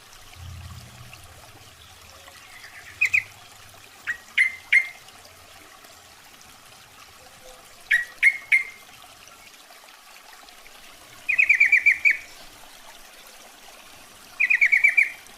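Yellow-vented bulbul (trucukan) calling: short sharp two- and three-note calls, and near the end two bursts of six or seven rapid chattering notes, several seconds apart. It is a female's call, played as a lure to draw in males.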